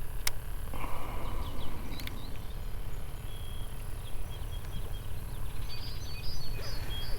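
Outdoor bankside ambience: a steady low rumble with small birds chirping in short high notes, busier near the end. A sharp click comes just after the start and a short rustle about a second in.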